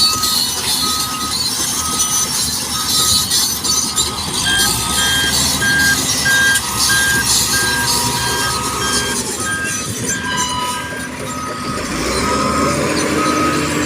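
Vehicle reversing alarms beeping, about three beeps every two seconds, over loud, steady engine and machinery noise. A second, higher-pitched alarm joins in about a third of the way through and stops about three-quarters of the way through.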